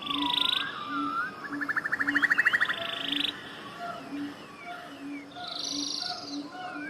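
Several songbirds singing together, mixing rapid buzzy trills with slurred whistled notes. Beneath them a low call repeats steadily about twice a second.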